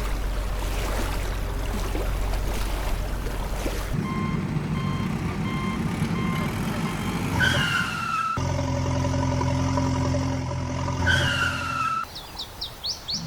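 Heavy truck engine sound effects cut together. First comes a steady low engine rumble, then an engine running under a run of evenly spaced reversing beeps, then a steadier diesel-like engine hum. Each of the last two passages ends with a short falling squeal.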